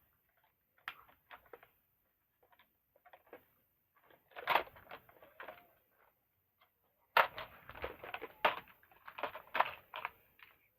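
Plastic toy truck being handled: a series of scattered clicks, knocks and light clatter, the sharpest knock just after the midpoint.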